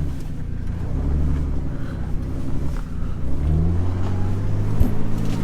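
Jeep engine revving in repeated surges, rising and falling, as it tries to push on through deep snow; a short sharp click near the end.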